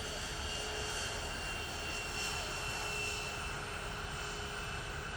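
Aircraft engine running steadily: an even rushing noise with a thin high whine held throughout.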